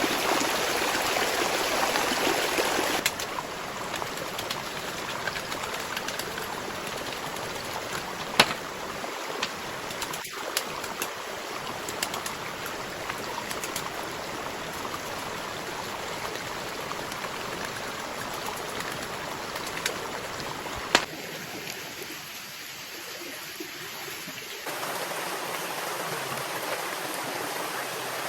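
Steady rushing of running water, with a few sharp clicks, the loudest about eight seconds in and again about twenty-one seconds in.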